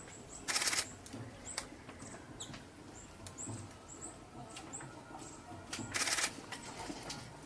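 Small birds giving thin, very high chirps every half second or so. Two short, harsh, hissy bursts, about half a second in and about six seconds in, are the loudest sounds.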